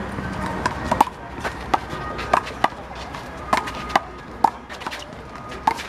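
Big blue rubber handball being smacked by hand, hitting the wall and bouncing on the court in one-wall handball: about a dozen sharp, irregularly spaced smacks.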